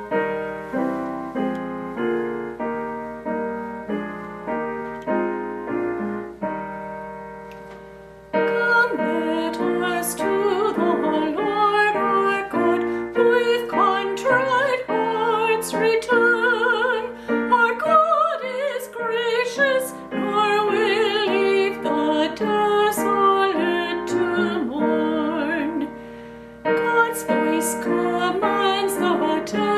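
Piano playing alone in steady, evenly spaced notes, then a solo voice singing with vibrato comes in over the piano about eight seconds in, pausing briefly near the end before going on.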